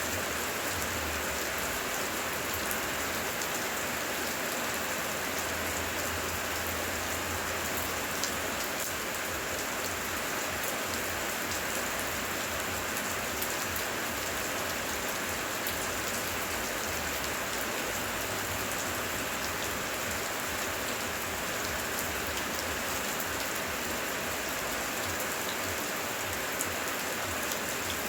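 Heavy rain falling steadily, with scattered individual drops ticking on surfaces.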